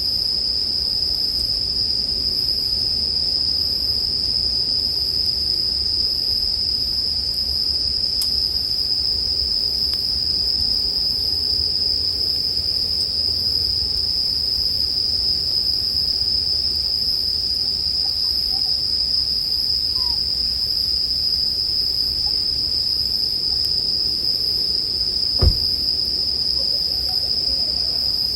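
Japanese bell crickets (suzumushi) singing in a continuous, steady high-pitched chorus, with one sharp snap about 25 seconds in.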